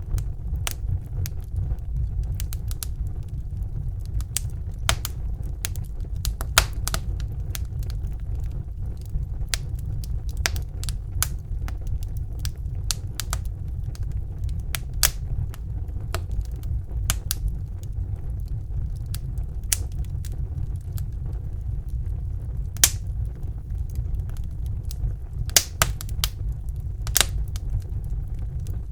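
Wood fire burning in a fireplace: a steady low rumble of the flames with frequent sharp, irregular crackles and pops, a few of them louder.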